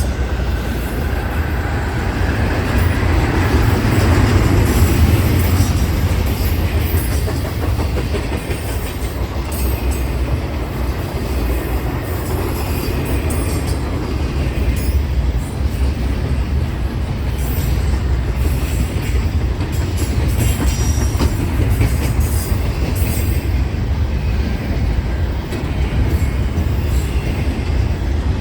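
A BNSF intermodal freight train rolling past steadily, with a low rumble.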